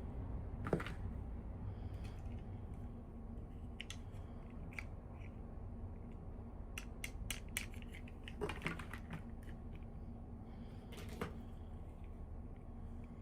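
Scattered light clicks and taps of small toy pieces and packaging being handled, with a quick run of clicks just past the middle, over a steady low hum.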